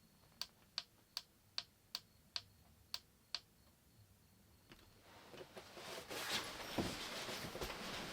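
Eight sharp clicks in a steady rhythm, about two and a half a second, then from about five seconds in a growing rustling with small knocks.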